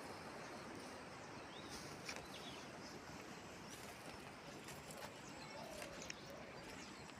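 Faint outdoor ambience: a steady low hiss with scattered light clicks and a couple of brief faint chirps.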